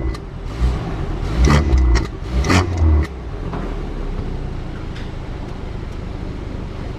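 BMW F32 428i's turbocharged four-cylinder through an aftermarket dual exhaust with the resonator deleted and the exhaust valves open: a few short throttle blips in the first three seconds, then settling to a steady idle.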